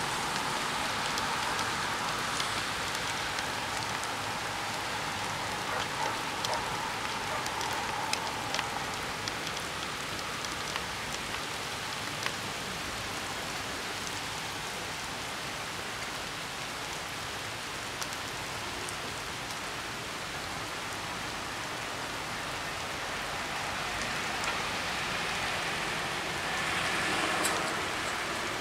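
Steady rain falling, a constant hiss scattered with small drip ticks. Near the end a car passes on the wet road, a brief swell of noise.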